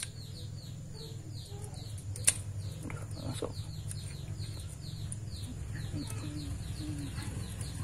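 A bird chirping in the background, a fast steady run of short falling chirps, about five a second. A single sharp metal click comes about two seconds in, from circlip pliers working a snap ring in a brush-cutter gearbox head, over a low steady hum.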